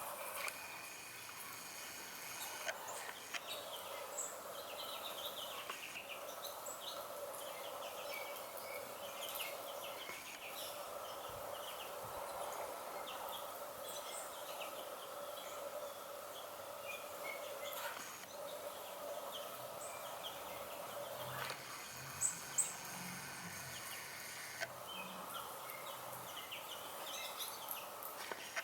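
Small wild birds chirping and calling in short, high notes scattered throughout, over a steady background hum. Two sharp louder sounds come close together about three-quarters of the way through.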